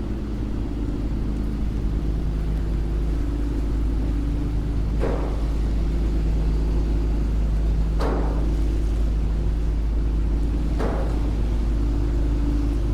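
Steady low rumble of street traffic with an engine's hum. Three short sharp knocks about three seconds apart stand out over it.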